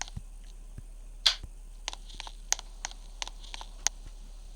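Light switches being flipped: a string of about ten short, sharp clicks at an uneven pace, two or three a second.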